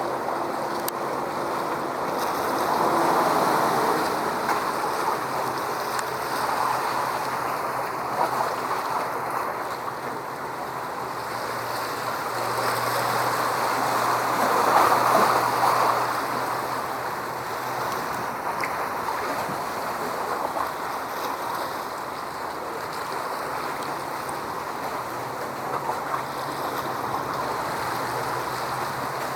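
Water washing in waves, with wind noise, swelling louder about three seconds in and again about halfway through, over a faint low hum.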